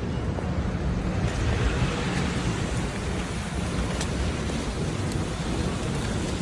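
Wind rumbling on the microphone over steady city street noise, with a few faint clicks.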